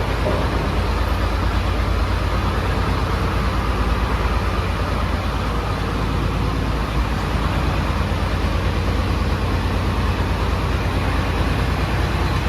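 Farm tractor's diesel engine running steadily at a constant speed close by; it is a tractor that smokes a little.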